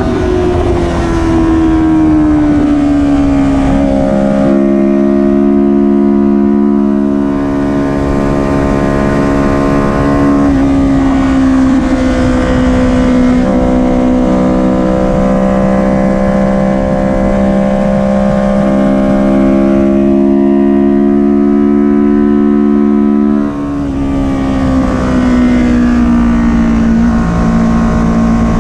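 Kawasaki Ninja 400 parallel-twin engine running hard under race throttle. The pitch falls at the start, steps up and down several times, then drops with a short dip in loudness about 23 seconds in and falls off as the throttle closes.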